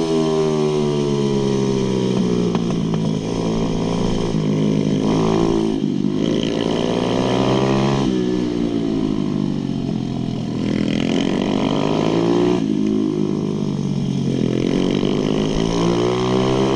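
Pit bike engine running hard around a track. The pitch climbs and drops again every two to three seconds as the rider accelerates out of corners and rolls off or brakes into the next.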